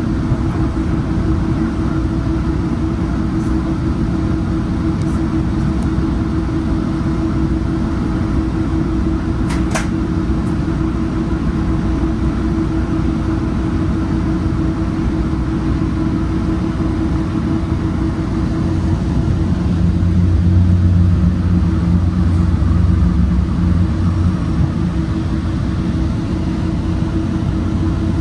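Metrolink diesel commuter train running along the track, heard from on board: a steady rumble with a constant hum. The rumble swells for a few seconds about twenty seconds in, and there is one short sharp sound about ten seconds in.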